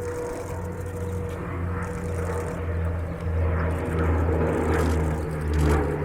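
Twin Rolls-Royce Dart RDa-10/1 turboprop engines of a YS-11 running, a steady whine over a low drone that grows louder.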